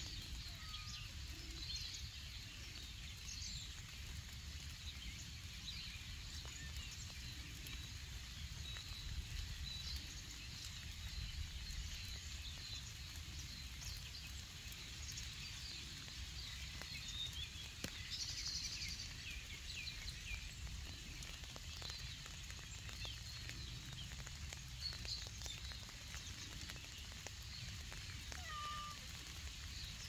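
Small birds singing and calling: scattered high chirps, trills and whistles throughout, over a steady low background rumble.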